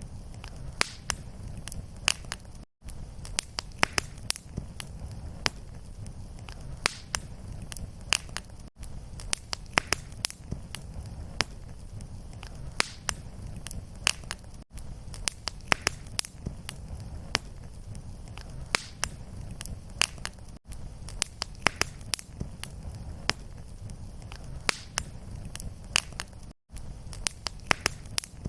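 Fireplace fire crackling: frequent sharp pops and snaps over a low, steady rumble of flame. A brief gap in the sound comes about every six seconds, where the looped recording restarts.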